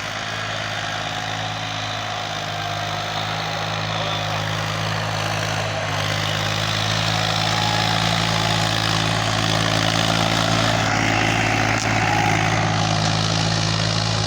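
Massey Ferguson 254 Dynatrack tractor's diesel engine running steadily, getting somewhat louder from about halfway through.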